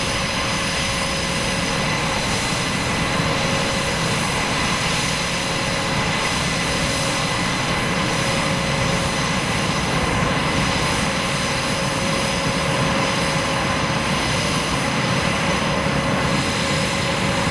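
Aircraft engine noise: a steady rush with a few high whining tones held at constant pitch, no swell or fade.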